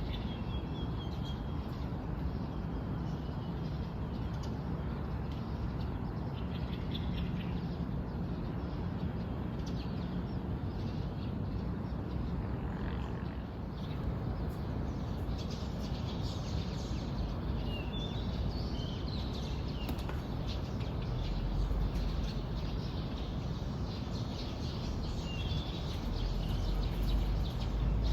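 Wild birds chirping and trilling in short, scattered calls, over a steady low rumble that grows louder near the end.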